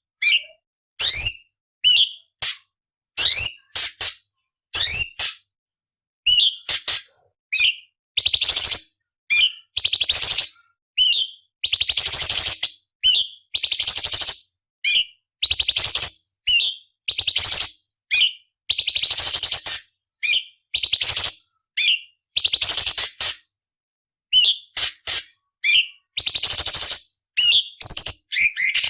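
Orange-bellied leafbird (cucak cungkok) singing: a run of short, sharp, bending whistled notes alternating with harsh, scratchy rasping phrases of about a second each, with brief pauses between.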